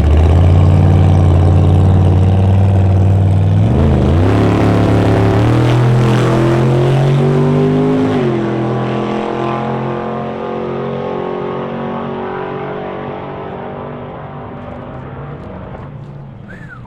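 Drag racing car engine held at steady revs, then climbing in pitch about four seconds in, dropping sharply at a gear change and fading as the car pulls away down the strip.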